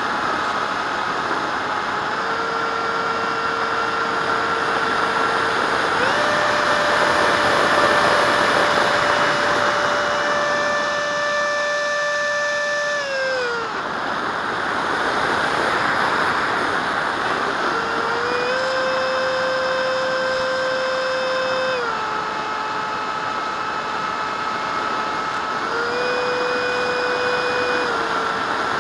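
Electric ducted fan of a radio-controlled jet whining over a hiss of rushing air. The pitch steps up and down with the throttle several times, with a sharp drop about halfway through.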